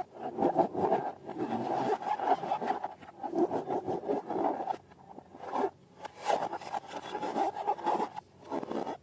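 Irregular rubbing and scraping as rubber balloons and slime are handled, in uneven strokes with two short pauses past the middle.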